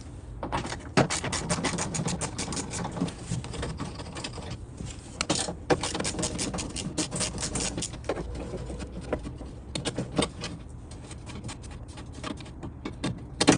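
Ratchet wrench clicking in quick runs of strokes as bolts inside a car's rear door are loosened; the clicks are densest in the first half and thin out later.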